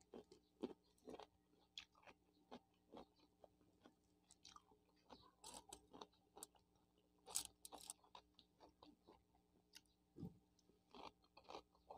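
Quiet, close-up chewing and crunching of raw cucumber chunks: a run of short, irregular crunches and mouth clicks.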